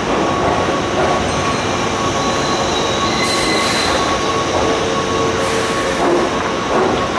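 Keihan Main Line electric train moving along the platform in the underground station, a steady loud rumble of wheels on rail with a faint high wheel squeal over it.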